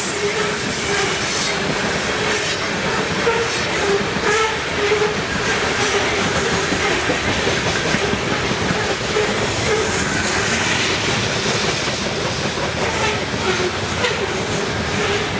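A train passing close by, its steel wheels clattering steadily over the rail joints with a continuous loud rumble and brief squeals.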